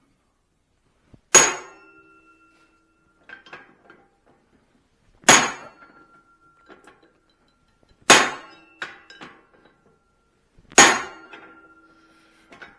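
Blacksmith's hammer striking hot steel on the anvil while straightening the eye of a hand-forged cross peen hammer head: four heavy blows a few seconds apart, each ringing on for about a second, with a few lighter taps between.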